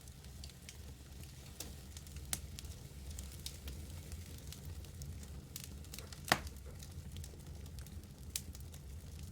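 Wood fire burning in a fireplace: a steady low rumble of flames with scattered crackles and sharp pops from the logs, the loudest pop about six seconds in.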